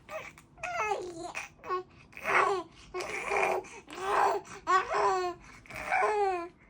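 A baby babbling in a run of short, high-pitched vocal bursts, several of them sliding down in pitch at the end.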